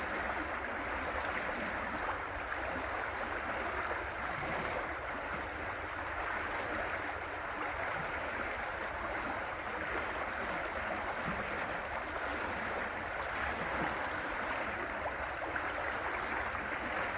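River water rushing and burbling steadily, a continuous hiss that holds the same level throughout.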